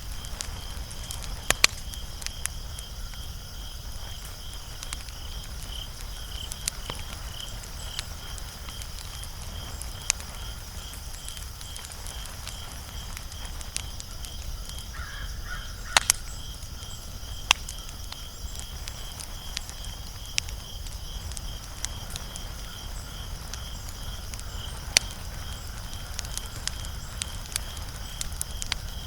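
Wood fire burning with sparse crackles and a few sharp pops over a low rumble. A steady high-pitched chirping pulses a few times a second throughout.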